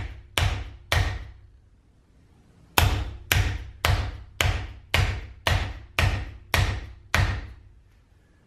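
Flat palm slapping down on the end of a Pitbull Airguns Mega Moderator, a 3D-printed plastic suppressor on a Benjamin Bulldog air rifle, to tap the tight-fitting suppressor down into place. Three slaps, a pause of about two seconds, then nine more at about two a second, each with a short ringing tail.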